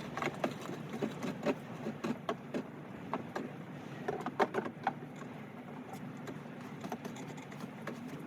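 Irregular clicks, taps and light knocks of gear being handled while packing up, over a steady low hum.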